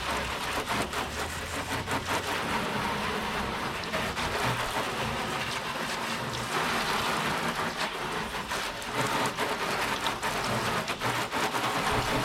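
Water spraying and pattering steadily on the hard plastic of a porta-potty, with many small ticks of drops.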